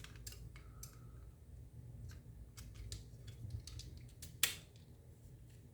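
Scattered light clicks and taps of Xbox controller parts being handled and fitted by hand, with one sharper click about four and a half seconds in.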